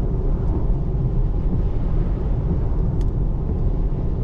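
Steady low rumble of tyre and road noise heard inside an electric car's cabin, driving on a rain-wet road.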